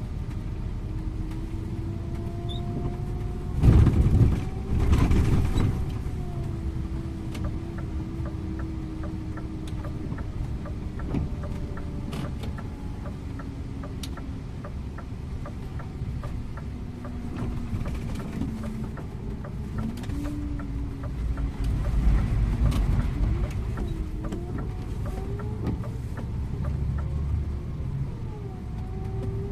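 Scania InterLink coach's diesel engine and road noise heard from the driver's seat while driving, the engine note slowly falling and rising with speed. About four and five seconds in come two brief loud rushing noises, with light rattles and clicks throughout.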